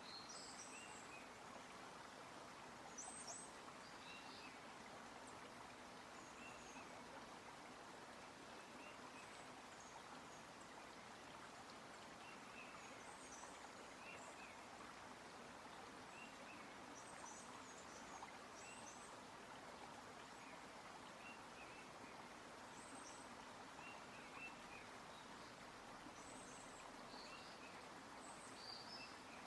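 Faint forest ambience: a soft, steady rush with short bird chirps scattered throughout.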